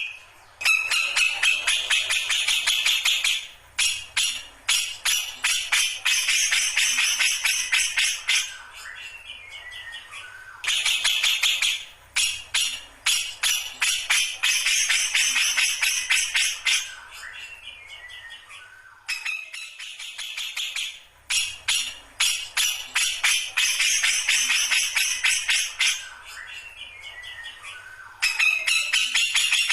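Grey-cheeked bulbul (cucak jenggot) singing in loud bursts of rapid, harsh chattering several seconds long. Between the bursts come quieter stretches with short series of notes stepping down in pitch.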